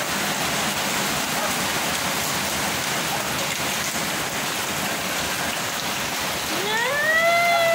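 Heavy rain pouring onto a concrete yard, a steady even hiss. Near the end a voice rises into one long held note over it.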